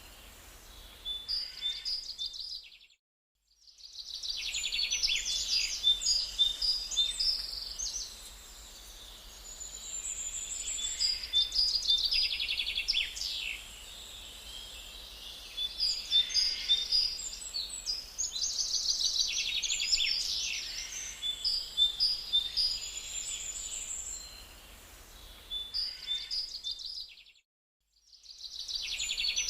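Songbirds singing and chirping together: quick high trills, short whistles and repeated chirps, cutting out to silence for about a second twice, about three seconds in and near the end.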